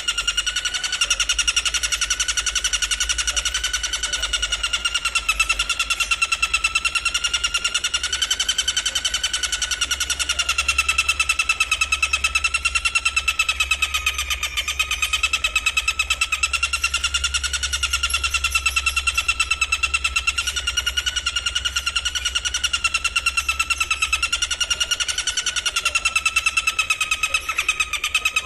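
Insect song, a cricket or grasshopper, as a continuous fast buzzing trill whose pitch wavers slightly, with no breaks.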